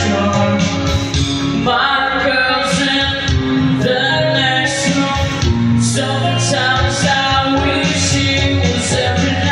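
A band playing a slow song, with a voice singing held notes over guitar and backing instruments.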